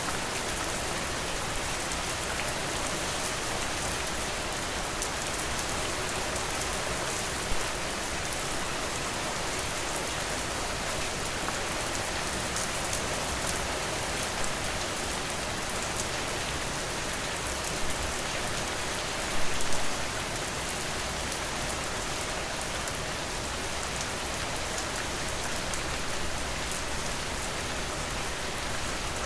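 Steady rain falling on a surface, a dense even hiss of drops, with a few sharper, louder taps now and then, most of them in a short cluster about two-thirds of the way through.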